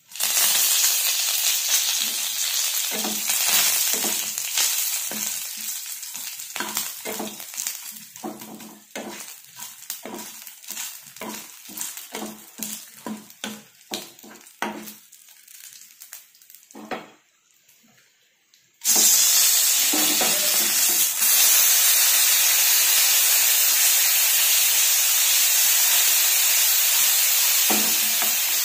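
Curry leaves dropped into hot oil with tempering seeds set off a loud sizzle that fades while a spatula stirs and scrapes the pan in quick repeated strokes. After a short lull about two-thirds in, tomato purée goes into the oil and sets off a loud, steady sizzle.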